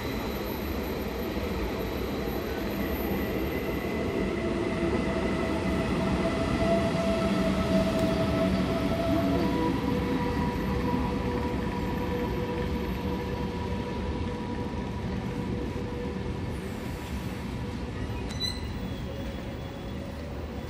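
VR InterCity train, an electric locomotive hauling double-deck coaches, rolling past with a steady rumble of wheels on rail. Drawn-out squealing tones come from the wheels, and the pitch of the squeal shifts about halfway through.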